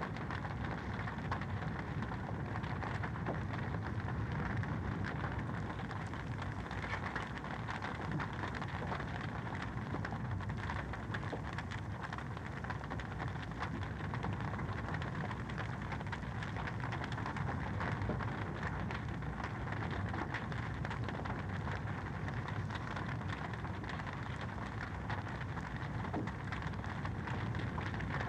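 Fireplace fire burning with a steady, dense crackle of many small pops over a low rumble of the flames.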